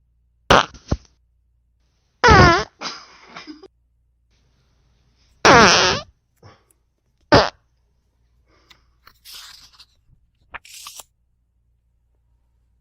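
Fart sound effects: four loud, short blasts in the first eight seconds, the second and third the longest. After them come a few faint rustles and flicks of paper pages being turned.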